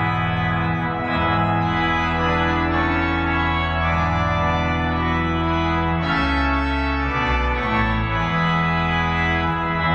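Organ music: sustained chords that change every second or so, with a deep bass line.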